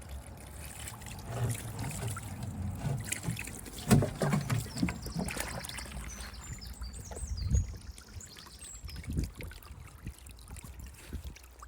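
Water trickling and sloshing in small garden pools, with several knocks and thuds; the loudest knock comes about four seconds in.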